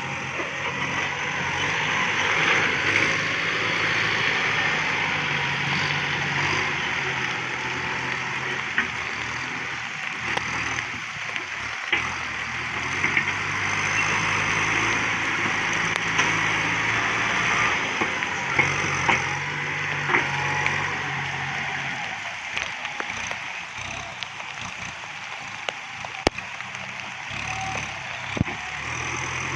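Kubota MU5702 tractor's diesel engine running under varying load, over a steady hiss, with scattered sharp cracks.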